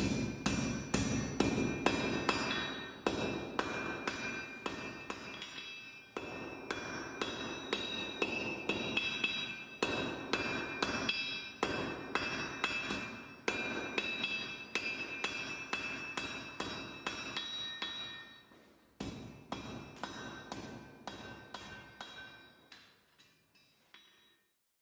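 Blacksmith's hammer striking an anvil over and over, a few ringing blows a second, each leaving a bright metallic ring. The blows stop briefly near the end, then fade out.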